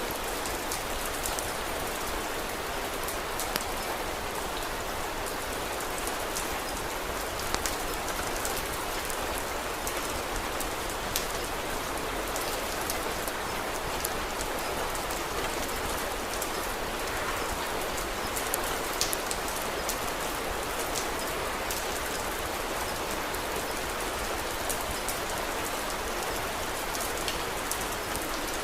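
Steady rain, with scattered small sharp crackles from a wood fire mixed in.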